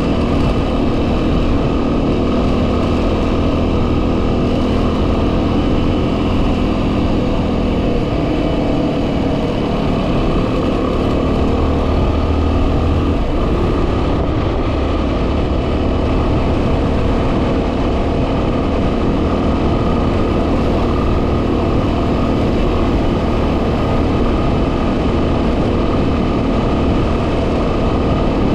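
2010 Yamaha WR250R's single-cylinder four-stroke engine running steadily while riding, under heavy wind noise buffeting the microphone.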